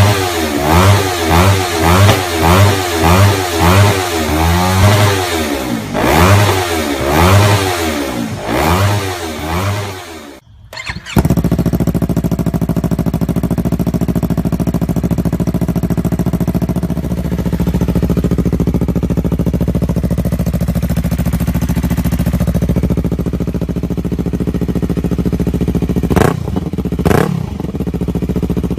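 Yamaha MT-03's parallel-twin engine through an aftermarket exhaust, revved in quick repeated blips, about one and a half a second, for the first ten seconds. After a brief cut it idles steadily, with a couple of short revs near the end.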